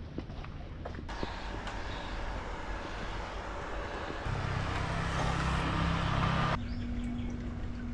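Street traffic noise with a motor vehicle's engine running close by. The engine grows louder from about halfway through, then cuts off suddenly near the end.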